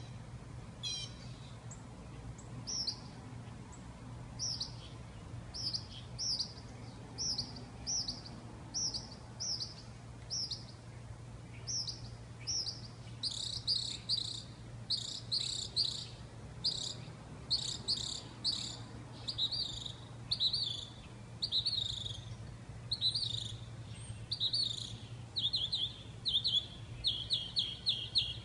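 A songbird chirping in short, high, repeated notes, sparse at first, then quicker and denser from about halfway, becoming a rapid run of chirps near the end. A steady low hum sits underneath.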